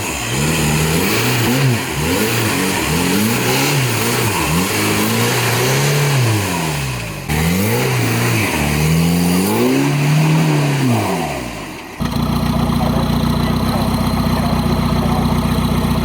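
Off-road 4x4 competition vehicle's engine revving again and again, its pitch climbing and falling every second or two. About three-quarters of the way through, the sound cuts abruptly to an engine running steadily at constant speed.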